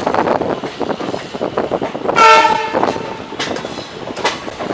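Train horn sounding once, for just under a second, about two seconds in, over the steady rumble and clatter of a train running on the rails.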